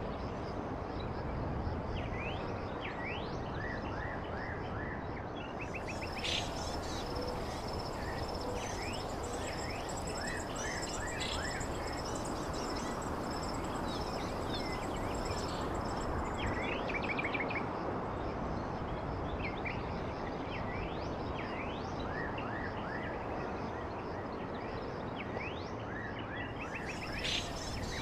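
Many birds calling: short chirps and quick sweeping call notes over a steady rushing background noise, with a thin high steady tone that starts about six seconds in and stops near the end.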